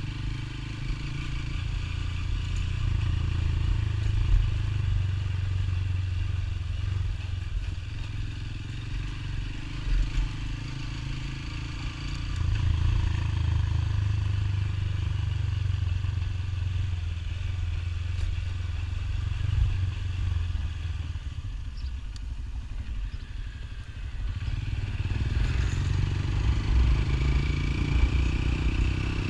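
Motorcycle running on the move, its engine heard under a heavy low rumble of wind on the microphone. The sound eases off for a few seconds about three-quarters of the way through, then builds up again.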